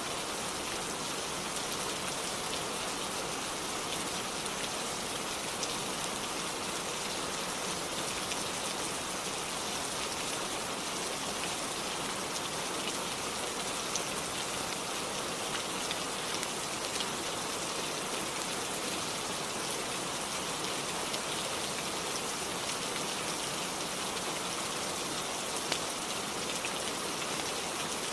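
Steady rainfall: an even hiss with scattered small drop ticks throughout.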